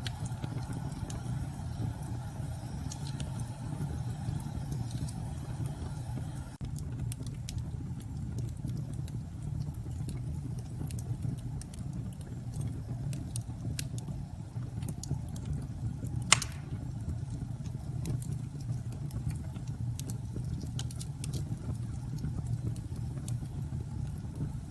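Fireplace crackling with scattered small pops and one sharper pop about two-thirds of the way through, over a steady low rumble of storm wind.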